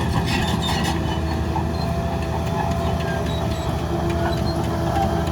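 Heavy diesel engine of an earthmoving machine running steadily under load, with some light metallic clinking in the first second.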